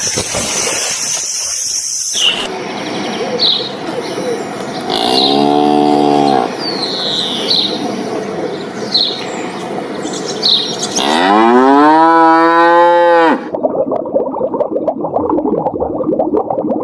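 A cow mooing twice: a short moo about five seconds in, then a longer moo that rises in pitch and cuts off. Small birds chirp repeatedly in between. Near the end it changes abruptly to a dense, muffled, rough sound.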